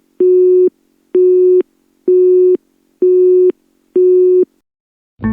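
Telephone busy signal: a steady beep tone, on for about half a second and off for about half a second, five beeps in a row before it stops.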